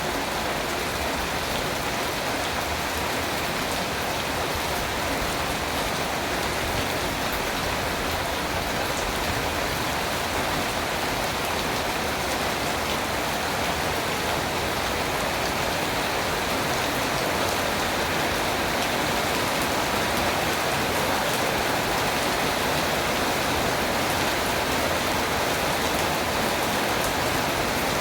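Rain falling steadily, an even, unbroken patter.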